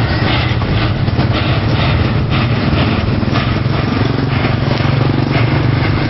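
Steam locomotive running: a steady low rumble under a rough hiss, with no clear beat.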